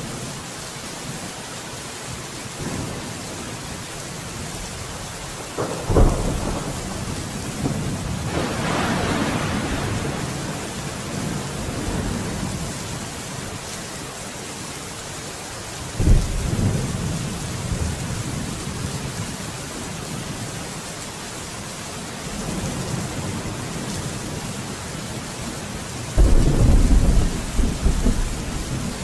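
Steady heavy rain with thunder: three thunderclaps, each a sudden crack rolling into a long low rumble, the last one the longest.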